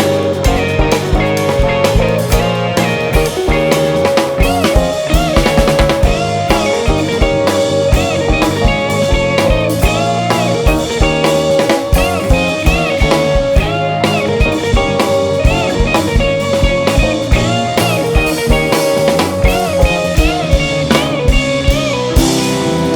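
Live jazz-fusion band playing: electric guitar lead with bending notes over bass and a drum kit keeping a steady beat.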